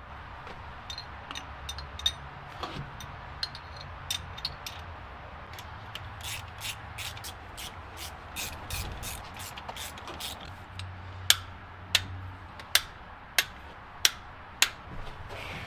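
Sharp clicks and taps of hand work, quickening into a run of rapid clicks partway through, then six evenly spaced knocks about two-thirds of a second apart near the end.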